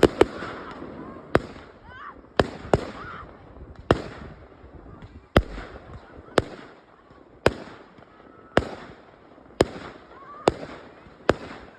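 Fireworks display: aerial shells bursting with sharp bangs about once a second, a dozen or so in all, each followed by a short crackling tail.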